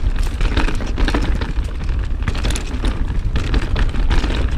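Mountain bike (an Ibis Ripmo) riding down a dirt trail: tyres rolling over dirt and rocks, with irregular clicks and rattles from the bike, and wind buffeting the camera microphone as a heavy rumble.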